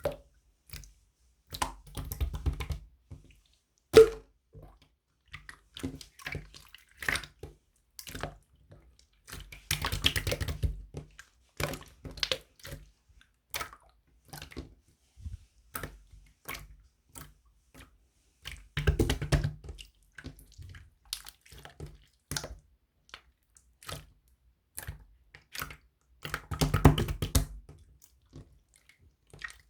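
Wet, sticky clicking and squishing in irregular bursts, with denser crackling stretches a few times.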